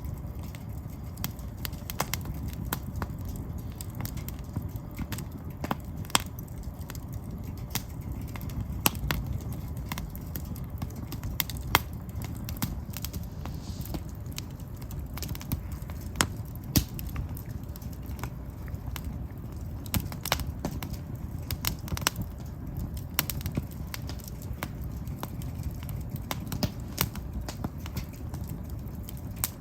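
Firewood logs burning, crackling and popping with irregular sharp snaps over a steady low rumble of the fire.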